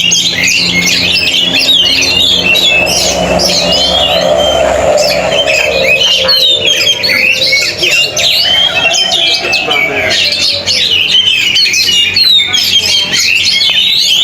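Many oriental magpie-robins (kacer) singing at once: a loud, dense chorus of fast whistles, chirps and trills. A lower drawn-out tone runs underneath from about three to ten seconds in.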